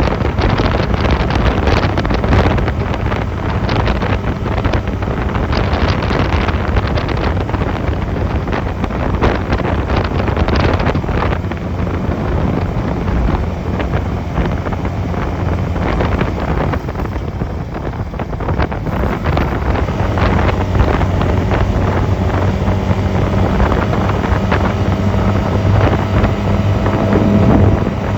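Honda 250cc motorcycle engine running while riding, under heavy wind noise on the microphone. It eases off briefly about two-thirds of the way through, then pulls again with its pitch rising slowly near the end.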